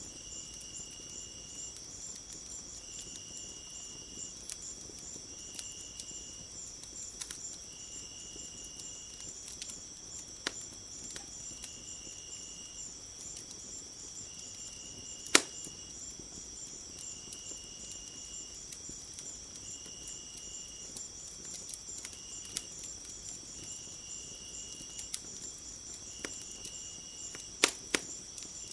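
Wood fire crackling with scattered sharp pops, the loudest about halfway through and two more near the end, over a steady high chorus of crickets and short trills repeating about every second and a half.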